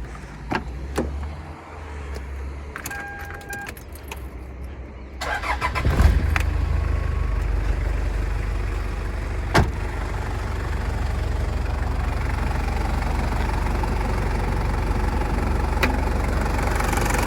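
Toyota Hilux Surf 3-litre turbo diesel started: a few clicks and a short beep, then about five seconds in the starter cranks briefly, the engine catches and settles into a steady idle.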